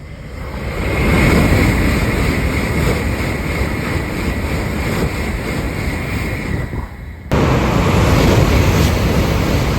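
Shinkansen bullet train passing close by at speed: a loud rushing noise of air and wheels that builds over the first second and holds. About seven seconds in it breaks off abruptly and comes straight back at full level.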